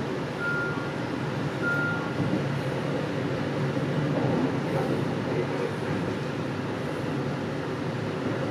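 JR Central 315 series electric train running along the track as it pulls alongside a station platform, a steady rumble of wheels and running gear heard from inside the car. Two short high beeps sound early on, about a second apart.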